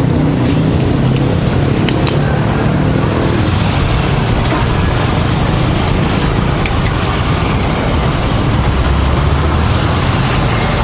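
Steady street traffic: motor vehicle engines and road noise running close by, with a couple of sharp clicks.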